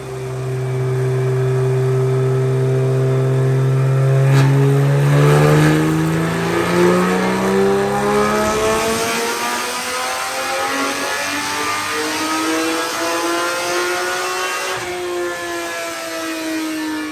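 Porsche GT4 Clubsport's flat-six engine making a power pull on a chassis dyno. It runs steadily for a few seconds, then the revs climb smoothly for about ten seconds, and they start falling near the end as the throttle comes off.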